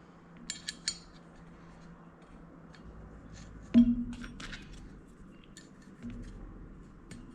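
Light metallic clicks and taps as a small machined steel key is handled and tried against the pulley, with one louder metal knock about four seconds in that rings briefly.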